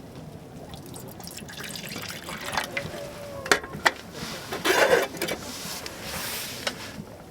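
Liquid being poured and splashing, with a few sharp clicks and a louder splashing swell about five seconds in.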